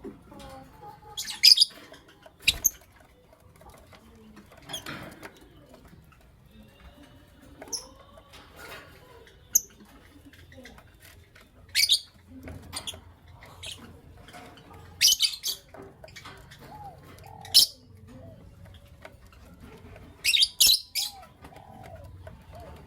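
Lovebirds chirping: short, sharp, high-pitched calls every two to three seconds, several of them coming in quick pairs, with fainter, lower calls in between.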